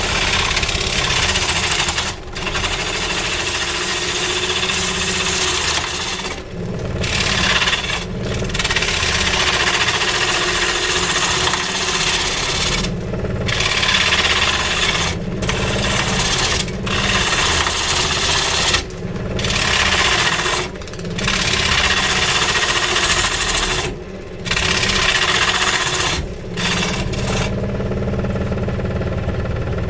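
Power tool cutting into willow wood with a running motor underneath: a harsh scraping cut that breaks off for a moment about a dozen times while the motor hum carries on steadily.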